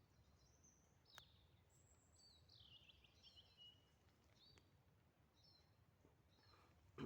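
Faint forest birdsong over near silence: scattered short high chirps and a falling trill from small songbirds, with a soft thump at the very end.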